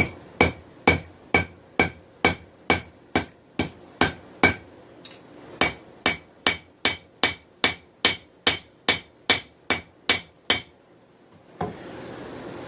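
Hand hammer striking hot 416 stainless steel on an anvil in steady forging blows, about two strikes a second, each with a bright ring. There is a brief pause about five seconds in, and the blows stop near the end.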